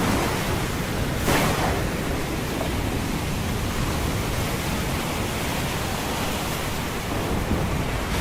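Steady rush of storm wind and heavy sea, with a louder surge about a second in.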